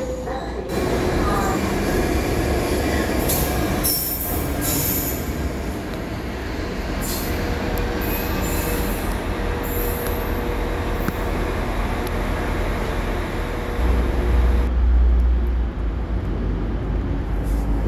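Diesel trains moving through a station in short clips: a Class 66 diesel locomotive passing with a long steady wheel squeal, then a Class 185 diesel multiple unit arriving with a heavy low rumble near the end.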